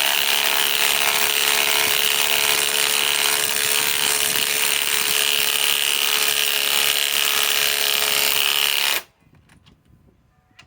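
Ryobi PSBIW25 compact cordless impact wrench hammering steadily as it drives a lag screw just under 3 inches long into an existing hole in wood. It stops suddenly about nine seconds in.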